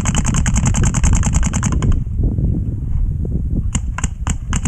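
Electro-pneumatic paintball marker firing in a rapid string of about a dozen shots a second, which stops about two seconds in, followed by a few single shots near the end.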